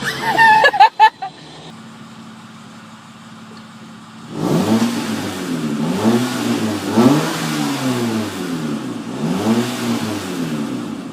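A car engine idling with a steady hum, then revved again and again from about four seconds in, its pitch rising and falling with each blip, through a newly modified exhaust. A few loud sharp sounds come right at the start.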